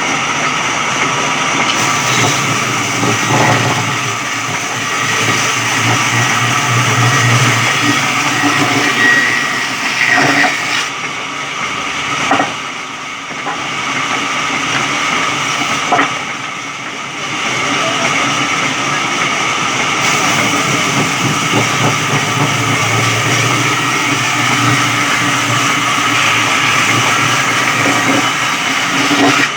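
Electric sawmill running and cutting wood: a steady, loud machine noise with a hum of steady tones, broken by a few sharp knocks. The cutting noise eases twice briefly near the middle.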